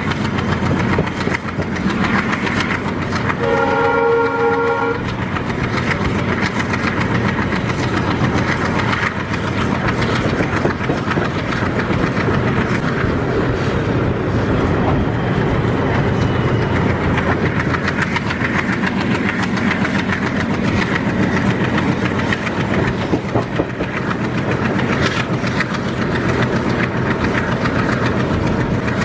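A passenger train running at speed, heard from one of its coaches: a steady rumble and rapid clatter of wheels over the rails. About three and a half seconds in, the WDM3D diesel locomotive ahead sounds its multi-tone horn once, a blast of about a second and a half.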